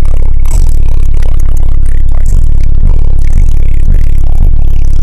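Bass-heavy rap music played very loud through a car's subwoofer system, heard inside the car. A steady wall of deep bass is punctuated by beat hits about every half second to a second.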